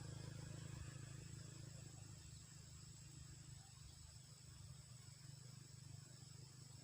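Near silence with faint outdoor ambience: a steady high insect drone over a low rumble that eases off after about two seconds.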